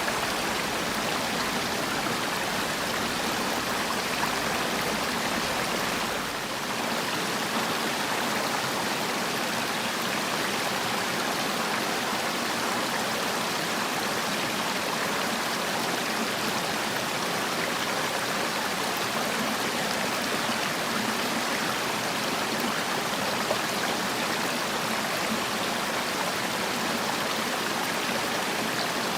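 Mountain valley stream running steadily, a continuous rush of flowing water.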